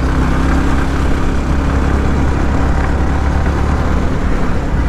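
Yamaha R15 V3's single-cylinder engine running steadily at a constant pace while riding, with wind rushing over the helmet microphone.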